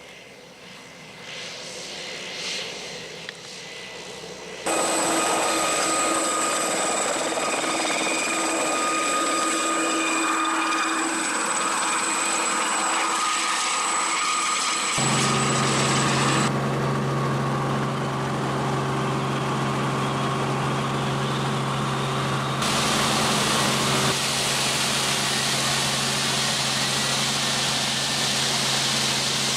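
Helicopter running steadily with a constant whine, heard in a string of cut-together clips. It rises from faint at first, jumps louder suddenly about five seconds in, and changes abruptly again about fifteen seconds in.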